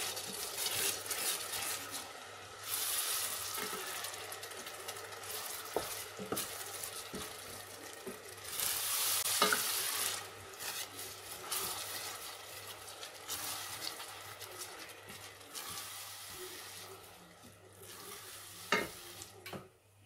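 Tomato and spice masala sizzling in hot oil in a stainless steel pot while a wooden spoon stirs it through, the hiss swelling and easing with the stirring. A few sharp knocks of the spoon against the pot, one near the end.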